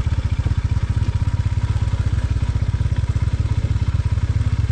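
Royal Enfield motorcycle engine running with a steady, even pulsing beat while the bike is ridden, with no change in revs.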